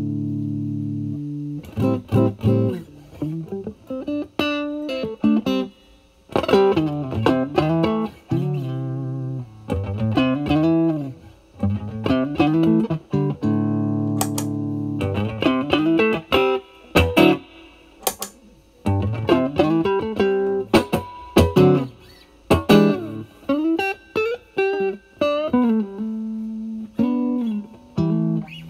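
A Stratocaster electric guitar through a Vertex Steel String Clean Drive overdrive pedal, with its gain at 8, into a Marshall Valvestate amp's clean channel. A chord rings out at first, then the guitar plays bluesy single-note lead phrases with string bends, separated by short pauses.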